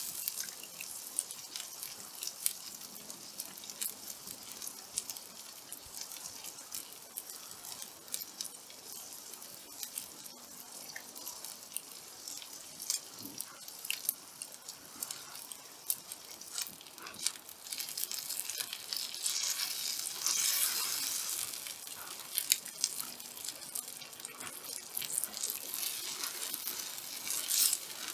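Meat sizzling on a hot black-iron griddle plate, a steady high hiss dotted with many sharp pops and crackles; the sizzle swells louder about two-thirds of the way through.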